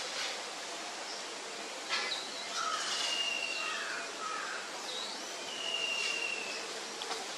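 Outdoor ambience with a bird calling twice, about two and five seconds in: a short hooked note, then a long, slightly falling whistle, with a few lower chirps. The calls sit over a steady background hiss.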